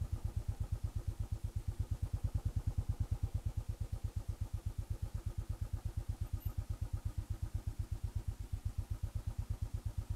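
Single-cylinder motorcycle engine idling with an even, steady beat of about eight pulses a second.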